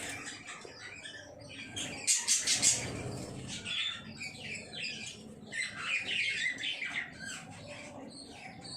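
Lovebirds chattering: a dense run of rapid high chirps and squawks, with a louder burst of calls about two seconds in.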